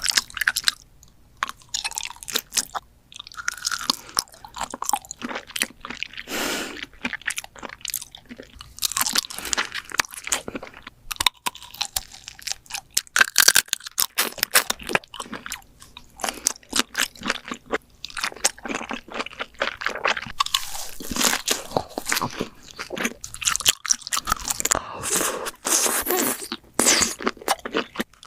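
A person biting and chewing crunchy food close to the microphone: many sharp, irregular crunches, mukbang-style eating sounds.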